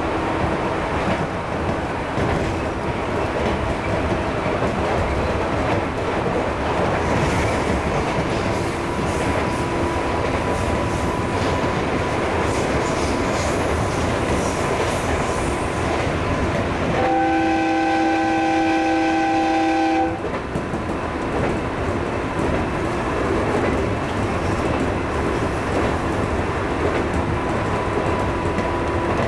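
Running noise inside the cab of a 211 series electric train, with wheels clicking over rail joints, while a freight train clatters past on the next track. About 17 seconds in, a train horn sounds one steady multi-note chord for about three seconds.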